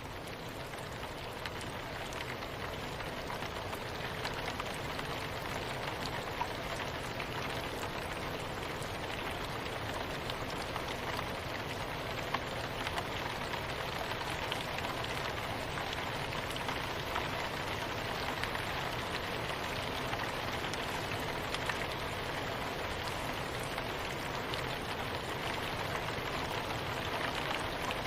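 Steady soft rain falling: an even hiss with scattered drop ticks, swelling up over the first few seconds and then holding level.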